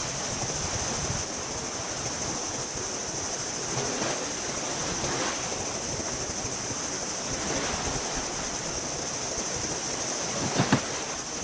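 Sea waves washing in steadily, swelling and easing a few times, over a steady high hiss. Two sharp knocks near the end.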